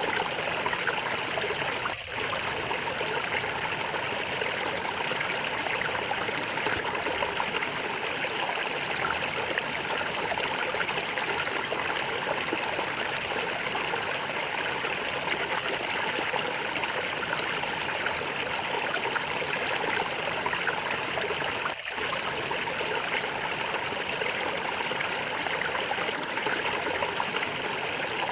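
Flowing water gurgling and trickling steadily, with two brief dips in level, one about two seconds in and one near the end.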